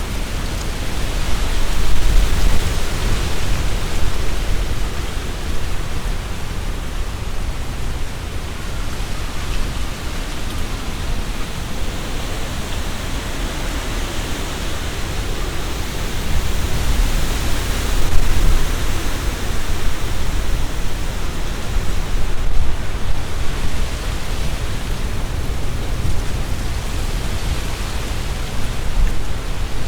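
Strong gusty wind rushing through tree leaves, with a heavy low rumble of wind on the microphone. The noise swells in gusts about two seconds in and again a little past the middle.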